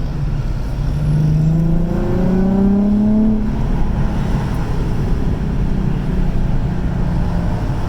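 Car engine rising in revs over about two seconds, then holding a steady drone over a constant low road rumble.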